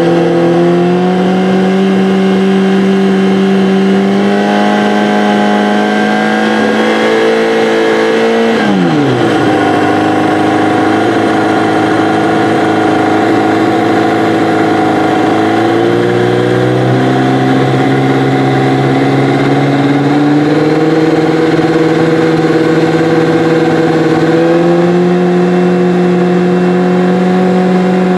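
Kawasaki ZX-7R inline-four engine on Keihin FCR carburetors, running in gear without load while the throttle is held at steady small openings for air-fuel ratio readings. It holds around 5,000 rpm and creeps higher, drops sharply about eight seconds in to near 3,000 rpm, then climbs in steps back past 5,000 rpm and starts falling off right at the end.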